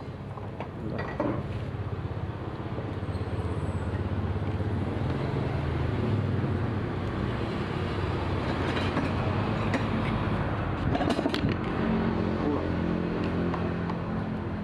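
Parsun 3.6 HP outboard motor running steadily, growing slightly louder over the first few seconds, with its pitch shifting up about twelve seconds in and a few sharp clicks along the way.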